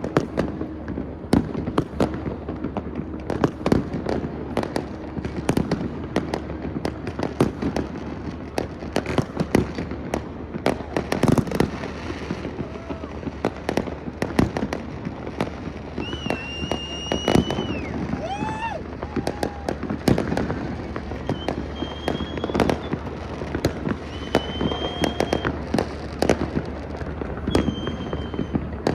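Many fireworks going off at once across a city, a continuous irregular stream of overlapping bangs and crackles at different distances. In the second half several short high whistles sound over the bangs.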